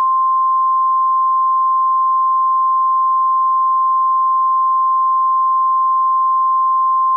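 Emergency Alert System warning alarm: a single steady high-pitched tone, the NOAA Weather Radio 1050 Hz alert tone, held unbroken.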